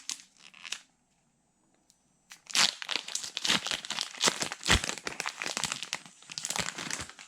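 Pokémon booster pack's foil wrapper being torn open and crinkled by hand: brief crackling, a pause of about a second and a half, then a long stretch of dense crinkling.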